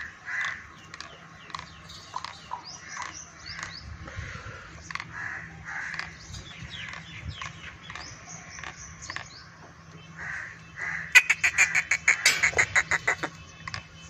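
Birds chirping and calling with short, scattered notes, then a loud burst of rapid chattering calls about eleven seconds in that lasts around two seconds.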